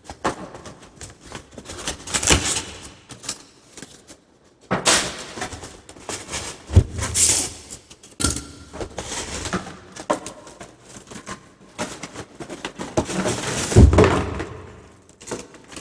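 Packaging rustling and crinkling in irregular bursts as the contents of an espresso machine box are handled, with a few dull thumps as items are set down.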